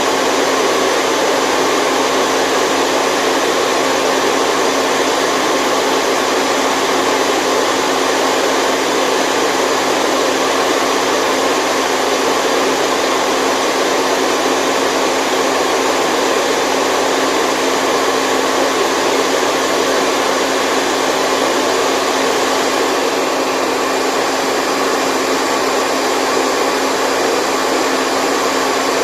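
Steady white noise for baby sleep: an even, unbroken rushing hiss with a faint steady hum under it.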